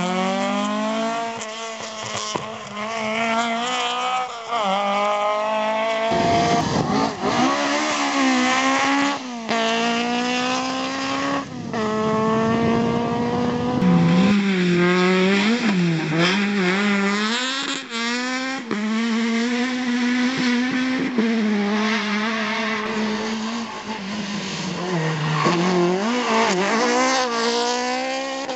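Rally car engines driven hard: revving up through the gears, the pitch climbing and then dropping at each gear change several times, then rising and falling unevenly through the middle and again near the end.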